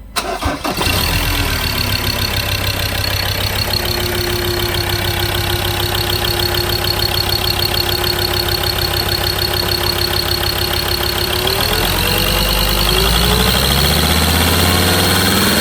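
Ford Ranger 3.2-litre five-cylinder turbo diesel cranking and firing up right at the start, then idling steadily. About twelve seconds in the engine speed rises and holds, dropping back near the end.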